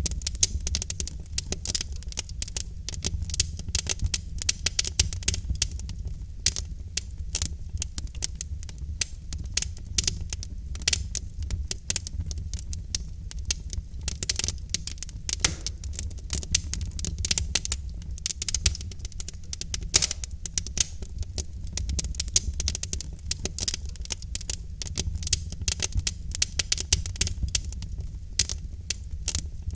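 Log fire in a fireplace crackling and popping: dense, irregular snaps over a steady low rumble of the burning.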